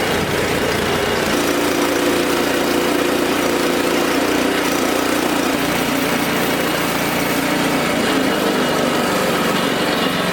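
Wood-Mizer LX25 band sawmill running as its blade cuts through a cherry log. The engine runs steadily under load, its note shifting about a second in.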